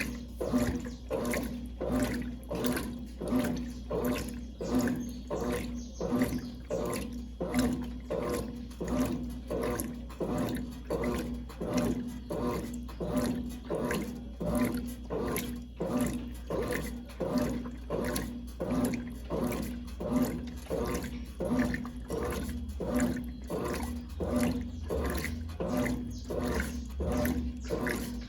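1996 Brastemp Clean 5 kg top-loading washing machine agitating: the agitator swishes the water and laundry back and forth in a regular rhythm of about one and a half strokes a second, over the steady hum of the motor.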